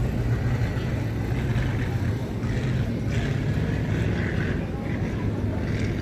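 Thunder Truck race truck engine running steadily under power during the race, a constant low drone.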